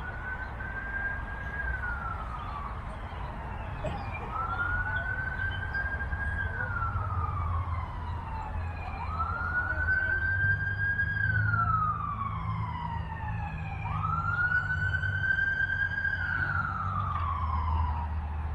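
Emergency vehicle siren in a slow wail, four times over: each cycle rises to a high held tone, then slides down, about every four and a half seconds. A low rumble runs beneath it.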